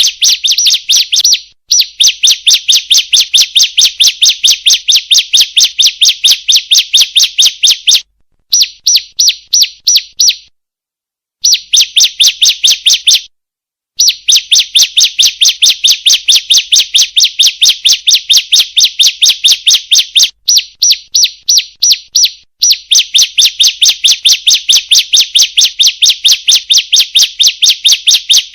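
Female bar-winged prinia (ciblek) calling: a fast, even series of high chirps, about five a second, in long runs broken by brief pauses, played as a lure call to set other ciblek calling.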